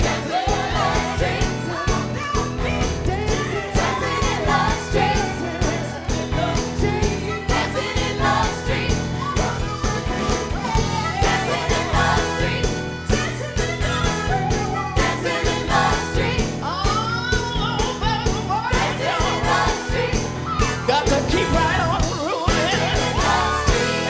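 A live Motown soul band playing with a steady beat, with singing over it.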